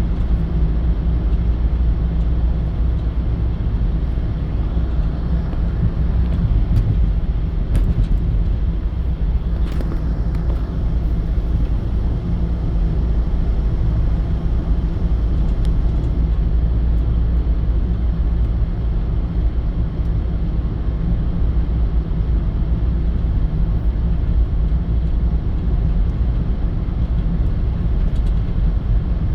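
A steady, low, even rumble of a car driving: engine and road noise, with a few faint ticks along the way.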